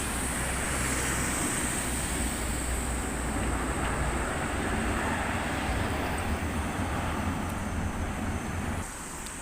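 Tram passing close by: a steady rumble of wheels on rails and running gear that drops quieter near the end as it moves away.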